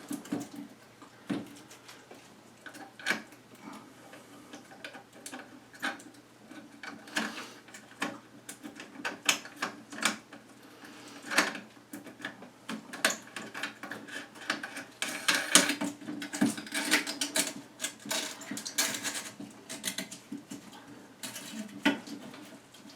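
Irregular small clicks, taps and rattles of hard plastic parts being handled as a washer is fitted onto the shank of a new toilet fill valve beneath the tank, busier in the second half.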